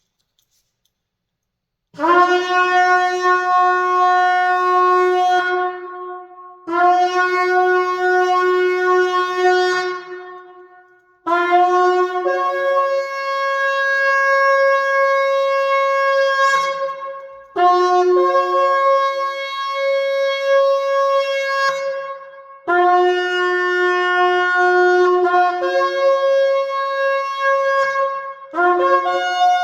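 A 39-inch shofar blown in six long blasts of a few seconds each, with short breaks between them. The first two hold one low note; the later ones start on that low note and jump to a higher note partway through.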